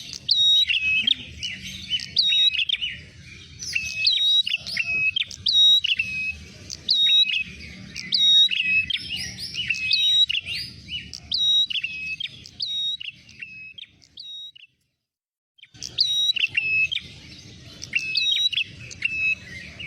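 Prenjak merah, a small tailorbird/prinia-type songbird, calling in a rapid run of sharp, repeated chirping notes, played as a looped lure-call recording. The calling breaks off for about a second around three-quarters of the way through, then resumes.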